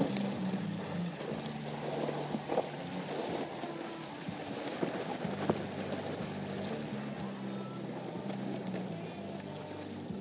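Four-wheel-drive vehicle driving slowly with a steady low engine hum, under heavy wind noise in 60 mph gusts, with scattered light patters and ticks against the body.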